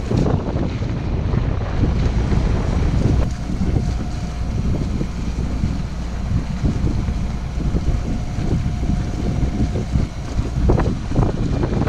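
Wind buffeting the microphone aboard a sailboat under sail, with a steady low rumble of wind and water. A faint steady tone runs through the middle.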